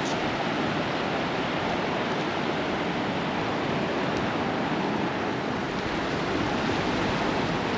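Gulf surf breaking and washing on a sandy beach, heard as a steady, even rush of noise.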